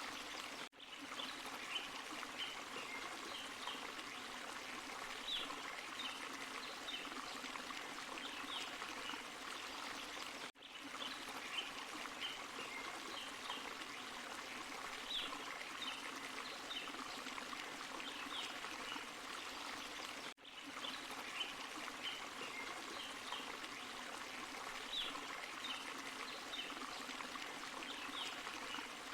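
Forest stream and small waterfall running steadily, with bright splashing trickles over the even rush. The sound drops out briefly about every ten seconds.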